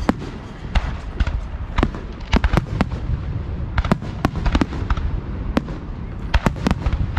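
Fireworks display heard close to the launch site: sharp bangs of aerial shells going off in irregular quick succession, about two a second, over a continuous low rumble.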